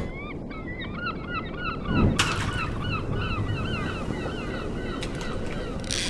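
A flock of birds calling, many short repeated calls overlapping, over low background noise, with a soft thump about two seconds in.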